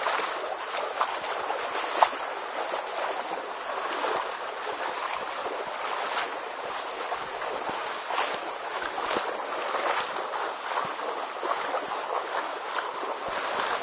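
Waterfall pouring, a steady rushing of falling water, with a short sharp knock or splash about two seconds in.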